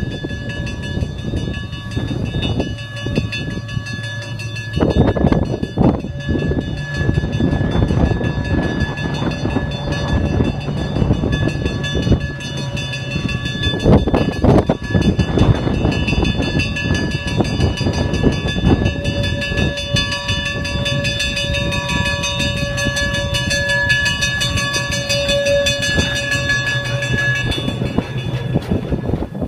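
Train running past, most likely diesel-hauled: a low engine hum, wheels clacking over rail joints, and steady high-pitched tones that last almost the whole time.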